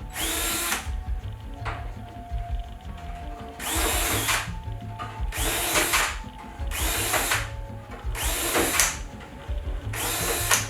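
Power drill run in short bursts, six times, each spinning up for about half a second to a second and then stopping, roughly every one and a half seconds.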